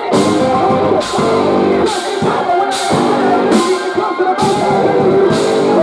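Loud, heavy post-hardcore band playing live, the full band dropping out and crashing back in several times in a stop-start pattern.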